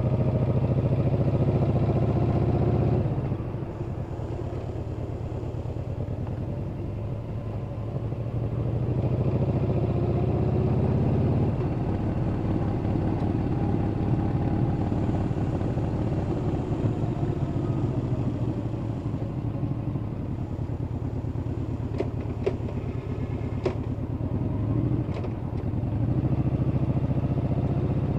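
Yamaha Bolt's air-cooled V-twin running under way, with a deep exhaust note. The engine pulls strongly at first, eases off about three seconds in, then builds again. A few sharp clicks come near the end.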